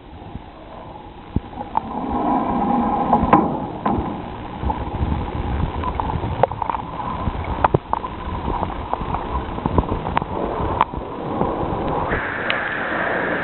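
Hot spring water pouring into a bath: steady splashing and gurgling with sharp drips and splashes through it, and a higher hiss joining about twelve seconds in.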